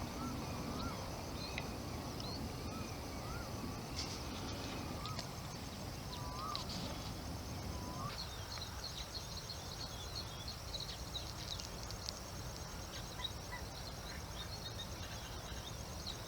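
Outdoor bird ambience: a bird repeats a short, hooked, rising-and-falling note about once or twice a second for the first half. Underneath run a steady high-pitched buzz, scattered small high chirps and a low rumble.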